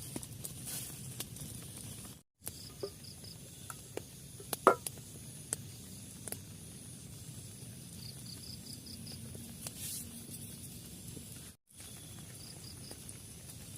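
Steady outdoor background hiss with an insect chirping in short quick trills three times. There are a few scattered clicks, with a sharp knock about five seconds in. The sound drops out to silence twice for a moment.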